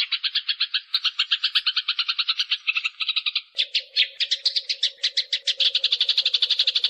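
Eurasian tree sparrows chirping in a rapid, unbroken stream of chirps, the chatter of sparrows fighting. A steady low hum joins about three and a half seconds in.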